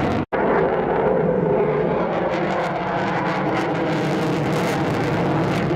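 Jet fighter's engines roaring steadily during a display flypast, with a brief drop to silence about a third of a second in.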